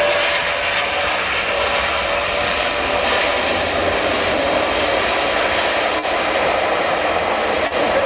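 Airbus A400M's four Europrop TP400-D6 turboprop engines running on the ground: a steady propeller drone with a whining tone.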